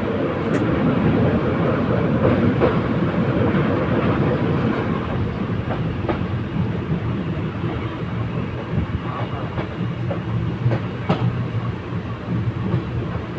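Train running along the track: a steady rumble of wheels on rail with scattered clicks and knocks from the rail joints, easing off slightly over the stretch.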